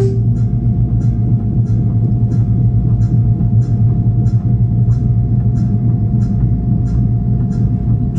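Inside a Stadler GTW diesel-electric railcar under way: a steady low drone from the running gear and power unit, with a faint steady whine above it and light ticks a little over twice a second.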